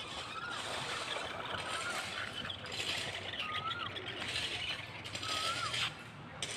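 A toy monster truck's small motor and gears whirring, with a ratcheting clatter in uneven bursts as it drives over the ground. A bird's short whistled call, rising then falling, comes three times.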